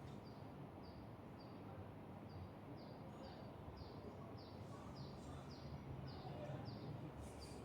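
A bird chirping: a faint run of short, high, falling chirps, about two a second, growing a little louder toward the end, over a low steady hum.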